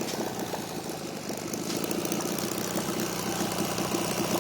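Miniature gasoline engine running steadily, with rapid, even firing pulses.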